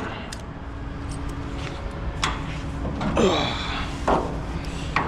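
Sheet-metal truck bedside panel being worked into place: scattered knocks and a scrape with a brief falling ring a little past three seconds in, over a faint steady hum.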